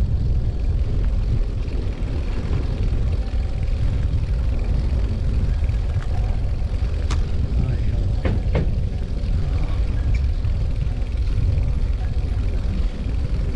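Steady low rumble of wind and tyre noise from a Brompton folding bicycle being ridden, with a few sharp rattling clicks from the bike between about six and nine seconds in.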